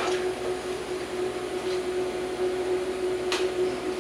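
A steady machine hum with one constant tone, broken by two short sharp clicks: one at the start and one about three seconds in.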